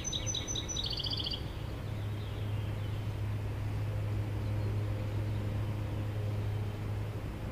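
A songbird gives a quick run of short high chirps ending in a brief trill in the first second and a half, over a steady low hum.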